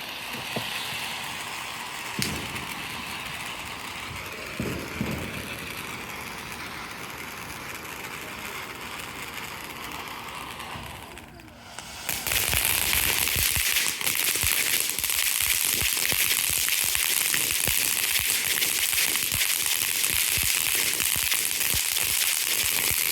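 Consumer ground firework burning, hissing with scattered crackles. About halfway through it dips briefly, then comes back much louder as a dense hiss of sparks with rapid crackling.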